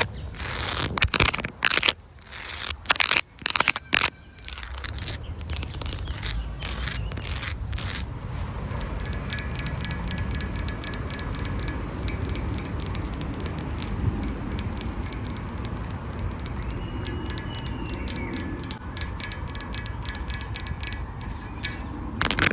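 Dry leaves and twigs crunching and crackling in quick, irregular snaps for the first few seconds. Then a steady low outdoor rumble with a few faint high tones, and the crunching starts again at the very end.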